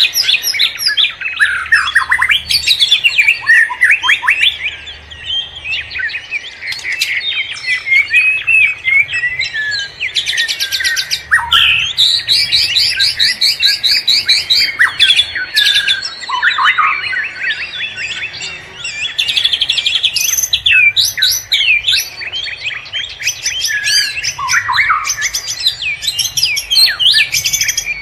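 Wild forest birds singing and calling together in a dense, unbroken chorus of overlapping chirps, whistles and rapid trills.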